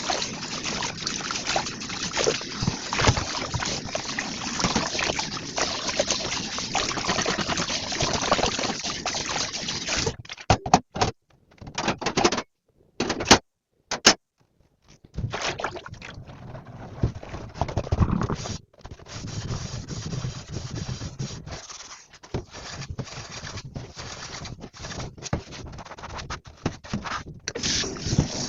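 Tap water running into a kitchen sink while dishes are washed. About ten seconds in it stops, then comes on again in short, choppy bursts, with intermittent quieter splashing and rinsing.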